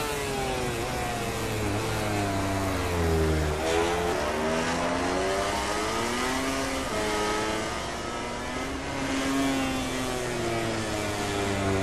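MotoGP racing motorcycles' four-cylinder engines at full race pace, several at once: the pitch rises as they accelerate through the gears and drops sharply at each shift or when braking for a corner.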